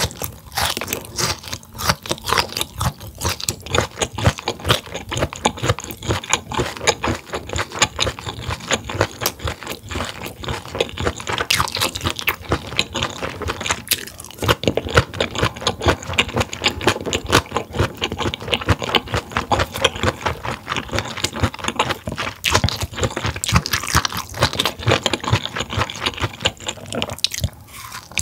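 Close-miked chewing of stir-fried grilled mullet gizzard: a dense, fast run of crisp crunches and wet chewing clicks that keeps going with no pauses.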